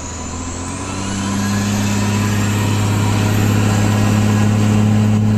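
Truck engine accelerating: its drone rises in pitch and loudness over the first second or two, with a high whine climbing alongside, then holds steady at a higher cruising pitch.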